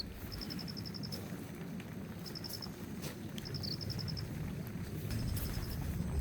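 An insect, cricket-like, chirping in short trains of rapid high pulses every second or two, over a steady low rumbling noise with a few sharp ticks.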